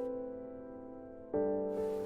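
Slow, soft piano music: a held chord fades away, then a new chord is struck about a second and a half in.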